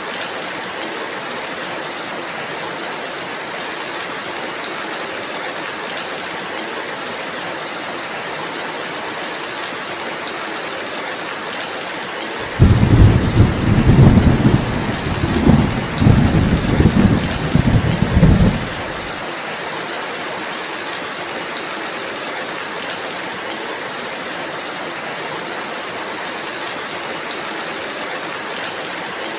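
Steady rain falling, with a roll of thunder about halfway through that starts suddenly, rumbles low in several swells for about six seconds, then dies away.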